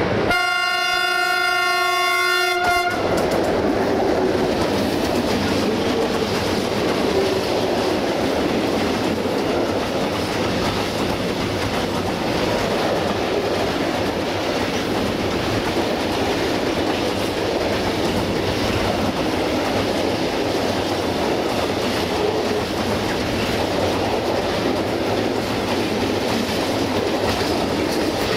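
An Electroputere 060-DA diesel-electric locomotive sounds its horn in one blast of about three seconds. Then the locomotive and a long string of freight tank wagons roll past close by, a loud steady rumble of wheels on the rails.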